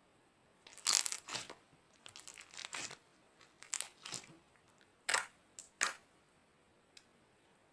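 Slime being squeezed and pressed by hand, giving a series of short, sharp crackling bursts. The loudest come about a second in and again around five to six seconds.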